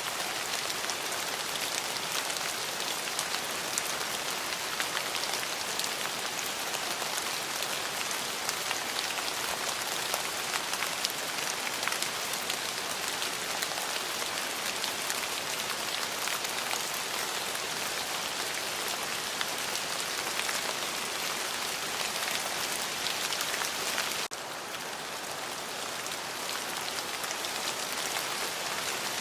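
Steady rain falling, with many individual drops ticking through the hiss. About 24 seconds in it cuts abruptly to a quieter level, then swells back up over the next few seconds.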